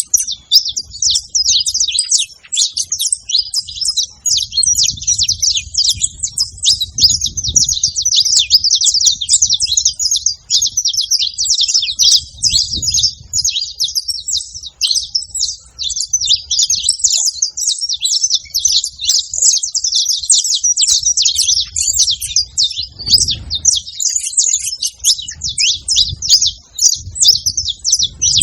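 Saffron finch singing, a long unbroken run of rapid, high chirps and trills. A faint low rumble comes and goes underneath.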